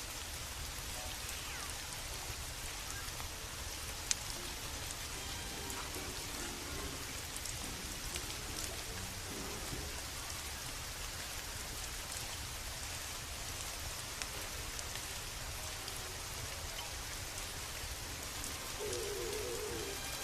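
Steady rain falling against a window, over a low steady rumble, with scattered sharp crackles from a burning wood fire; one crackle about four seconds in is louder.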